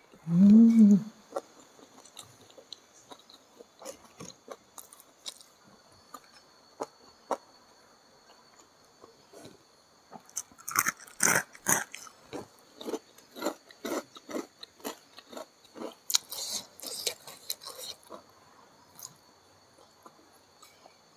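A person eating rice with chicken gizzard and liver in green chili sambal: a short hummed "mm" in the first second, then steady chewing with wet mouth clicks, and louder crunchy bites in two spells, around the middle and again a few seconds later.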